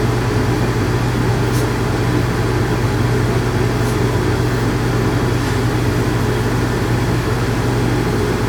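Electric dog grooming clippers fitted with a 4 guard, running with a steady low hum as they are worked through the dog's coat.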